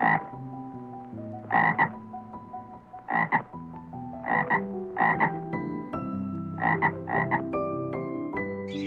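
A frog croaking in short calls about every second, some in quick pairs, over soft background music of held notes.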